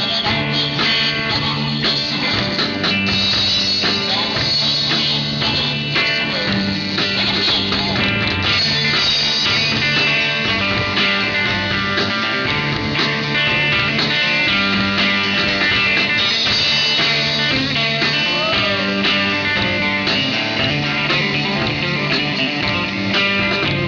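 Live country band playing, with guitar out front over a steady bass-and-drum beat.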